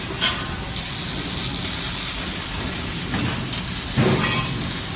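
Steady loud hissing industrial noise, with a short louder burst about four seconds in.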